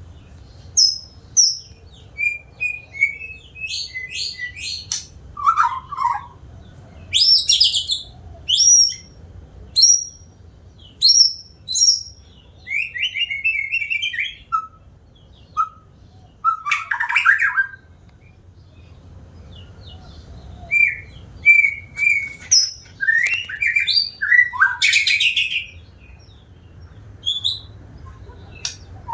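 White-rumped shama (murai batu) singing: a long run of varied, loud whistled phrases, quick high notes and trills, broken by short pauses and one longer pause a little past the middle.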